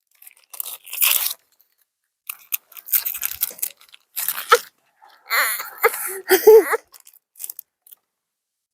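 Someone eating close to the microphone: crunching and chewing in irregular bursts with pauses, and a few short vocal sounds about five to seven seconds in.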